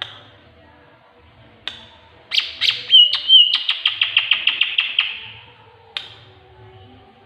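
Bird calls from a tengkek buto recording used as song material for training a green leafbird (cucak ijo). There are single sharp calls at the start, about two seconds in and near the end, and in the middle a fast run of about a dozen sharp notes with a short warble inside it.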